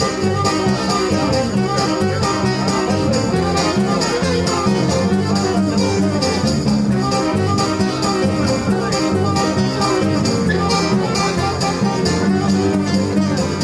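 Live band playing an instrumental break with a steady beat, a violin or fiddle over guitar and drums.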